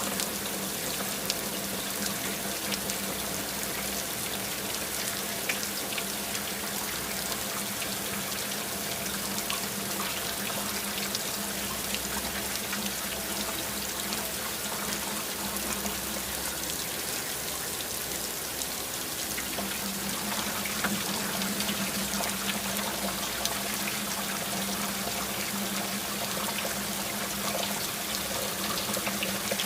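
Water running and splashing steadily, a continuous hiss flecked with small droplet ticks, over a faint steady hum.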